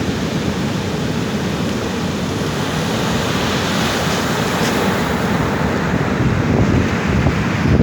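Ocean surf breaking on the shore: a continuous rushing wash of waves, swelling slightly toward the end.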